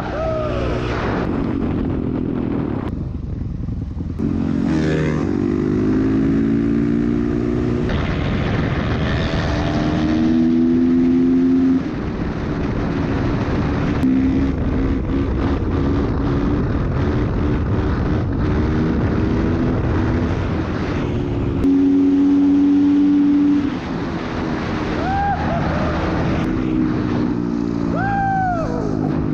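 Dirt bike engines running at speed on a road. The pitch repeatedly climbs and drops back as the riders accelerate and shift up through the gears, with a louder steady stretch a little past the middle.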